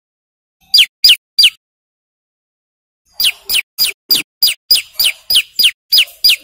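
Male prenjak lumut prinia singing a loud, fast series of sharp descending notes: three notes about a second in, then after a pause a steady run of about three notes a second.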